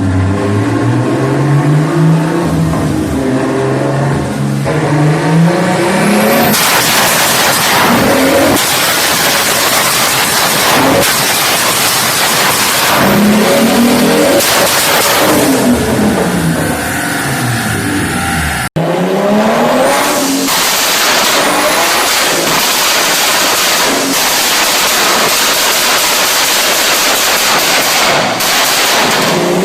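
BMW E30 engines revving hard through a loud exhaust, in a string of separate clips. First one engine's pitch climbs and falls, then comes a run of loud, hard-driven passes with the pitch sweeping up and down again and again. An abrupt cut about two-thirds of the way through leads into another such run.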